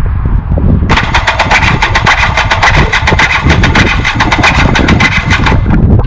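An electric starter cranking a 2014 KTM 300 single-cylinder two-stroke dirt bike engine from about a second in, with an even beat of about ten strokes a second for some four and a half seconds, then stopping. The starter is a new Firepower unit that the owner judges weak.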